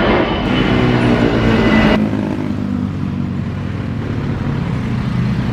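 Loud engine noise, with pitched tones low down over a broad rush; the higher part of the sound drops off abruptly about two seconds in.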